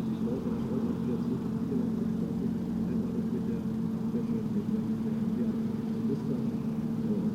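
A Corsair's Pratt & Whitney R-2800 radial engine running steadily, an even low drone that holds its pitch with no revving.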